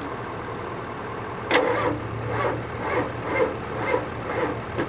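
Ford 7.3 IDI V8 diesel being cranked by its starter, which engages sharply about a second and a half in and then turns over slowly with even pulses about twice a second without firing. The slow cranking is the sign of weak batteries. A steady engine hum runs underneath.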